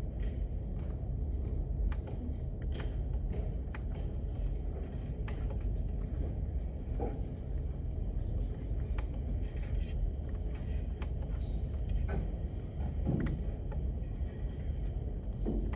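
Library room tone: a steady low rumble with scattered faint clicks and taps.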